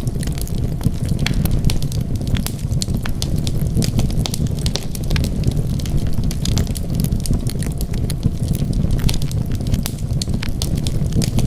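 Wood fire burning in a fireplace: a steady low rumble of flames with frequent small, irregular crackles and pops from the burning wood.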